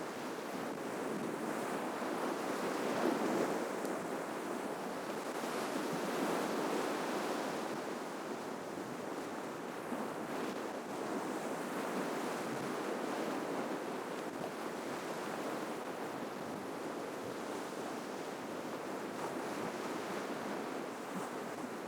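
Ocean waves washing onto a shoreline: a continuous rush of surf that swells slightly a few seconds in, then settles into a steady wash.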